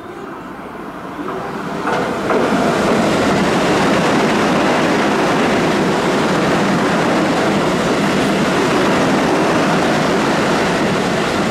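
Keio Line electric commuter train running fast past the platform: the rumble of wheels on rail builds over the first two seconds as it arrives, then holds loud and steady as the cars go by.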